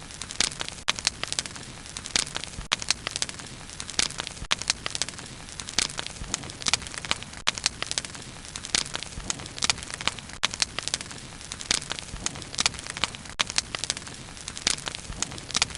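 Bonfire burning steadily, wood crackling and popping in quick irregular snaps over a low steady hiss of the flames.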